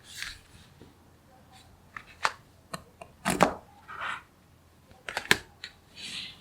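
Small magnetic balls clicking and snapping together as they are handled, with a cluster of sharp clicks in the middle and another shortly after five seconds. Soft brief rustles come in between, as the balls slide and shift.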